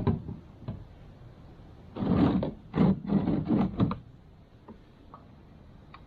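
A single knock, then about two seconds of clattering knocks from hard objects being handled.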